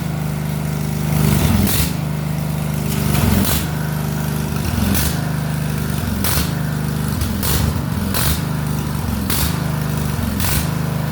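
Craftsman 14 HP OHV riding lawn tractor's single-cylinder engine running unevenly, its speed dipping and picking up again every second or so, with sharp pops about once a second. The tractor was found to be low on gas with its fuel shutoff closed.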